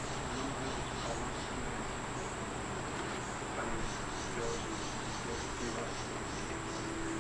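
Insects, most likely crickets, chirping in clusters of short high-pitched pulses over a steady high thin tone and low background noise.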